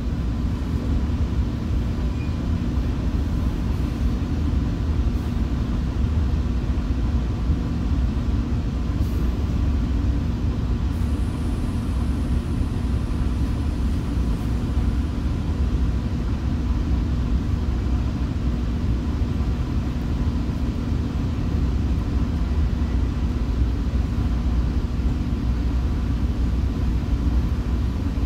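Commuter train running along the track, heard from inside a passenger coach: a steady low rumble with a faint steady hum over it.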